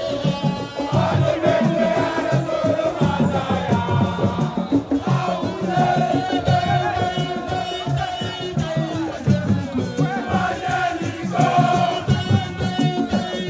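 Fast drumming with a group of voices singing and chanting over it, amid a crowd.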